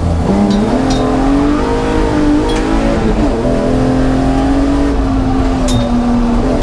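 BMW E36's M54B30 straight-six at speed on track. The engine note dips briefly right at the start, climbs over the next two seconds, falls around three seconds in, then holds and slowly sags. A few sharp clicks come through.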